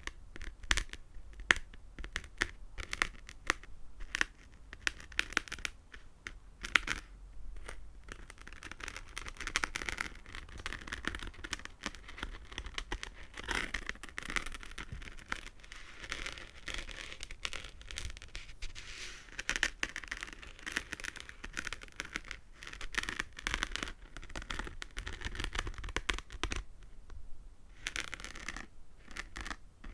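Fingernails tapping and scratching on small hard objects close to the microphone: fast sharp clicks, thickening into continuous scratching through the middle stretch.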